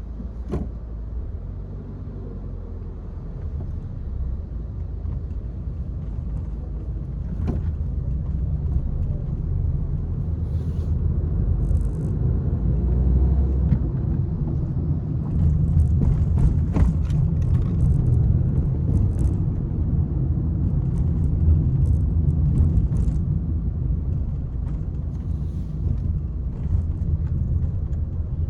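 Peugeot 301 driving: a steady low engine and road rumble that builds over the first fifteen seconds or so, with a few short knocks along the way.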